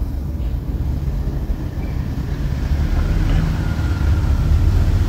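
A motor vehicle engine running steadily, a low rumble that grows a little louder toward the end.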